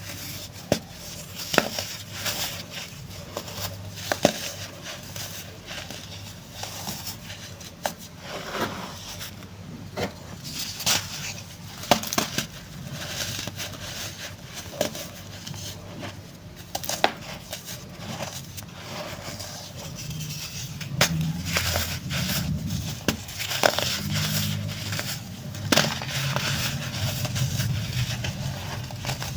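Chunks of pressed baking soda being crushed and crumbling, in irregular sharp crunches. A low steady hum joins about two-thirds of the way through.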